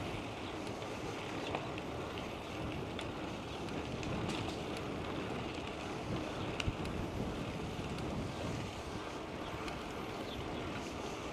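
Steady wind buffeting the microphone of a bicycle-mounted camera, mixed with tyre rolling noise, with scattered faint clicks and rattles from the moving bike.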